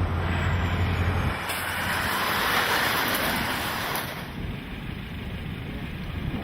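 Vehicle on the move, with steady road and wind noise. A low drone drops away about a second in, then a broad rush of hiss swells for a couple of seconds and eases off.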